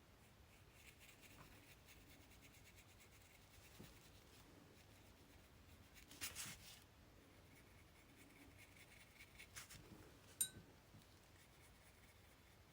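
Faint paintbrush strokes brushing over paper and fabric, with a short scratchy rustle about six seconds in and a single sharp click about ten seconds in.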